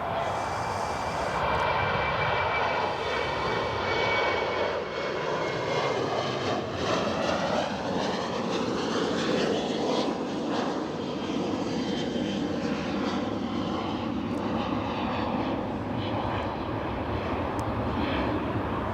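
Qantas Boeing 737-800's CFM56 turbofans at takeoff thrust as the jet departs, a steady loud jet noise with tones that slide in pitch as it passes.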